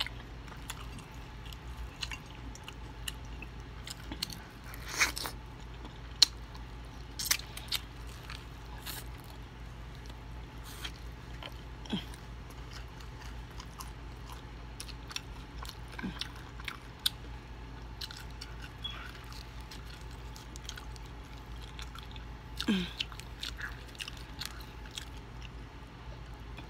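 Close-up chewing and biting of fried chicken: scattered crunches of the breaded skin and wet mouth clicks, with a few short low mouth sounds between bites.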